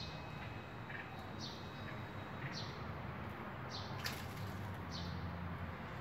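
Small bird calling with short, high chirps that slide downward, repeated about once a second over a steady low hum, with one brief sharp click about four seconds in.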